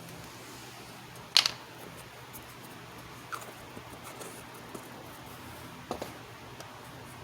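A few light clicks and taps, the loudest about a second and a half in, over a steady low hum and hiss.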